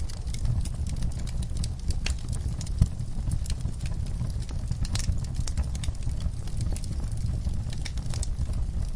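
Wood fire burning in a fireplace: a steady low rumble of flame with frequent small crackles and one sharper pop about three seconds in.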